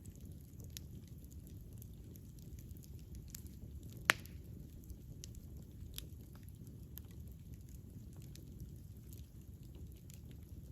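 Wood campfire burning with a low steady rumble and scattered small crackles, and one loud sharp pop about four seconds in.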